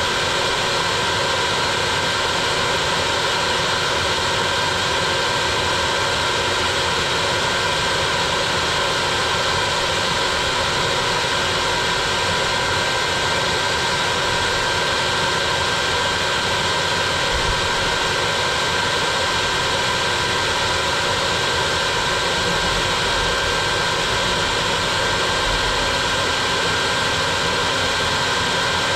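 Bee vacuum running steadily: a motor-driven suction hum with a constant high whine.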